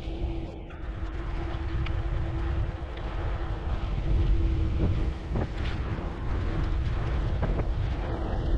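Wind buffeting the microphone and road rumble while riding a bicycle, with a faint steady hum underneath and a few light clicks.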